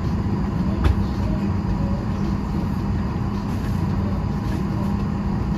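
Steady drone inside a Boeing 737 airliner cabin, with a constant low hum from the aircraft's engines and air systems. A single sharp click about a second in.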